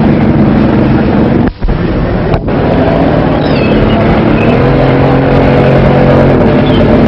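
Sports car engine running loudly and steadily, broken by two short gaps in the sound about one and a half and two and a half seconds in.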